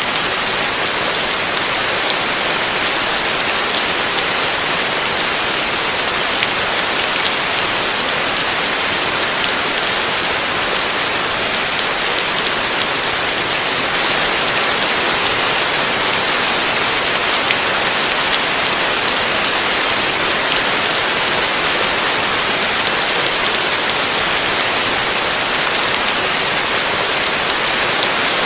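Heavy rain falling steadily on a roof: a dense, even hiss with fine drop patter, unchanging throughout.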